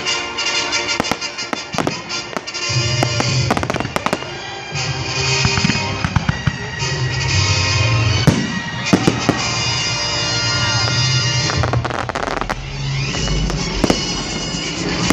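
Fireworks going off in a display: a string of sharp bangs and crackles at irregular intervals, over music played through loudspeakers.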